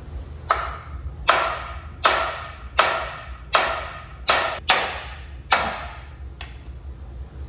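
Hammer blows on the steel spindle of a 1965 Chevy C30's front suspension, struck to break the lower ball joint loose from the spindle. About eight heavy strikes, roughly one every three-quarters of a second, each with a short metallic ring, then a lighter one near the end.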